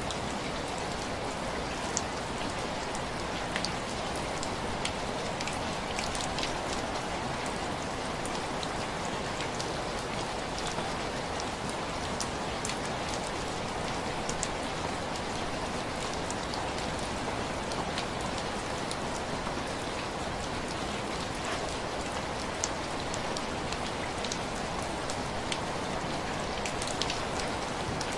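Heavy rain falling steadily, a dense even hiss, with scattered sharp clicks throughout.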